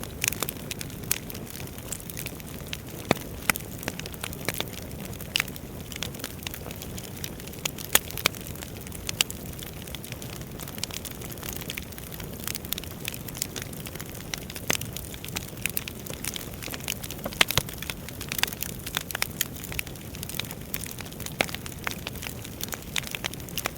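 Wood fire burning in a fireplace: a steady low rush of flame with irregular crackles and sharp pops from the burning logs, a few louder snaps scattered through.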